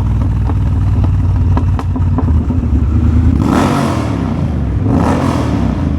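Triumph Bobber's 1200 cc parallel-twin engine running steadily under way in third gear. Two bursts of rushing noise come over it, about halfway through and again near the end.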